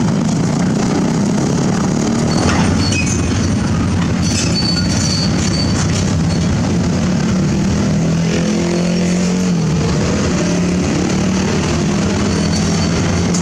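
Excavator's diesel engine running steadily at work, with a brief high squeak about four seconds in and a small change in engine pitch a little past halfway.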